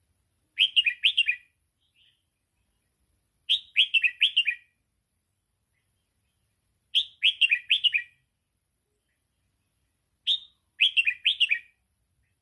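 Red-whiskered bulbul singing 'double'-style song phrases, a tutor song for young bulbuls. Four short phrases about three seconds apart, each a quick run of four or five falling whistled notes.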